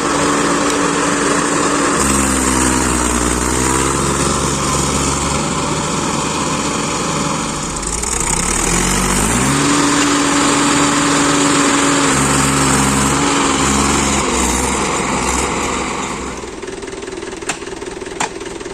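Heavy diesel engine running under load, its pitch dipping and then rising as the load changes, before settling to a lower, quieter run about sixteen seconds in. A few sharp clicks come near the end.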